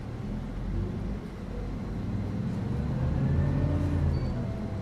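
City bus engine and road noise heard from inside the cabin: a steady low drone whose engine note rises and grows louder about three seconds in, then eases off near the end.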